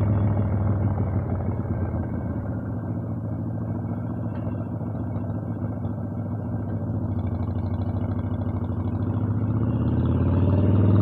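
Harley-Davidson Evolution V-twin engine running; it eases off and gets quieter for a few seconds, then builds again with a rising pitch near the end.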